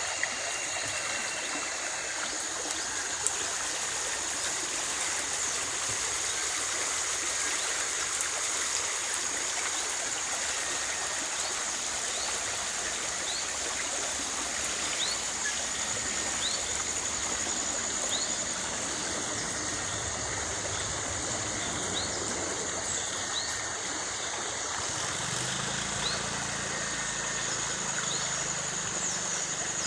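Water flowing steadily in a stream, an even rushing sound. From about halfway in, short high chirps repeat roughly once a second, and a faint low engine hum joins in the last third.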